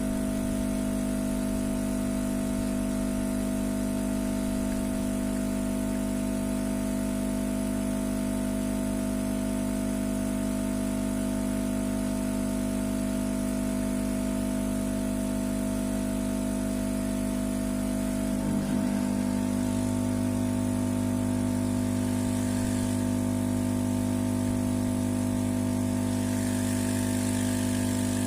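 Steady machine hum made of several fixed tones. About eighteen seconds in it briefly shifts and settles into a lower, stronger hum.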